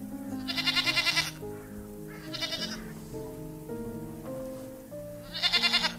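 A young goat bleating three times: quavering calls, the first about a second long, the last two shorter, over background music with steady held notes.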